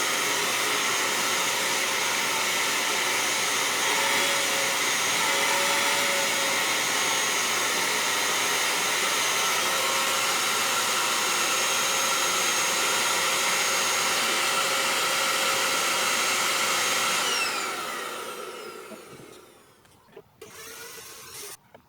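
Electric fan heater's blower fan running steadily with a rush of air, then switched off about 17 seconds in, its pitch falling as the fan spins down to a stop.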